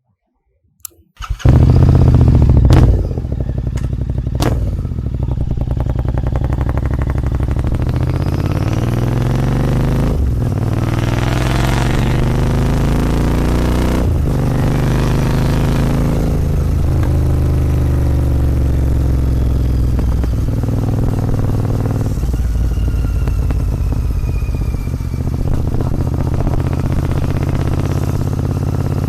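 Royal Enfield Continental GT 650's parallel-twin engine through a Red Rooster aftermarket exhaust, loud from about a second in. It pulls through the gears on the move, its pitch climbing and then dropping at each shift, several times over.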